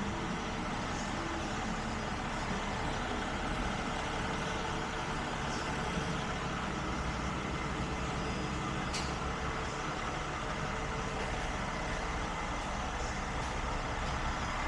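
Truck engine idling steadily, with a faint click about nine seconds in.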